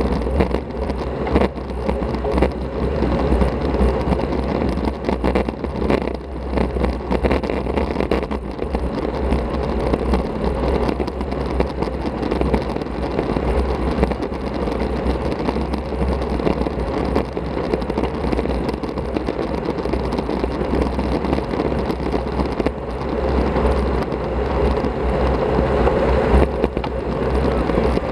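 Steady wind rush on an action camera's microphone, with road and tyre noise from a road bicycle being ridden.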